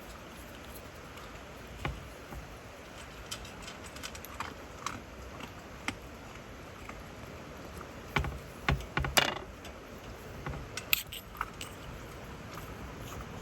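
Small metallic clinks and rattles of objects being handled, with a short run of louder knocks and clatter about eight seconds in, then a few more sharp clicks.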